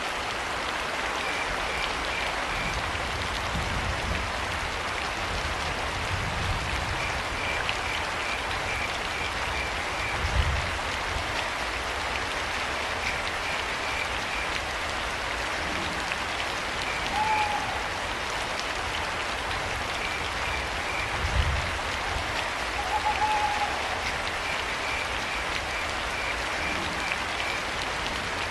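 Steady rain falling, with crickets chirping in short trains of quick pulses. An owl hoots briefly twice, about two thirds of the way in and again a few seconds later. Two dull low thuds come about a third of the way in and past the middle.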